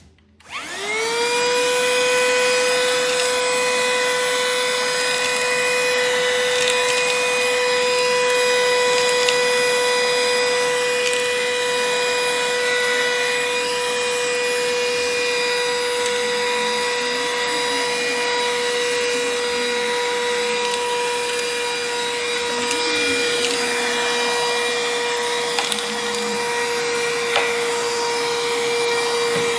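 HOMEKANE cordless handheld vacuum cleaner switched on: its motor spins up within the first second to a steady high whine and keeps running evenly.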